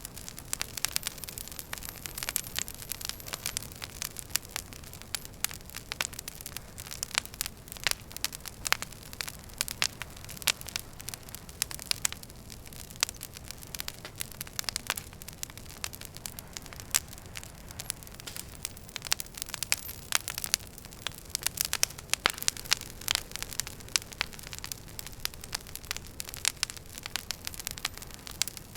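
Wood fire burning in a fireplace: a steady low rumble and hiss with many sharp, irregular crackles and pops of burning logs.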